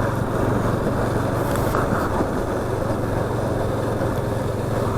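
Yamaha FZS25 motorcycle's single-cylinder engine running at a steady pace while riding, a low even drone mixed with wind and road noise.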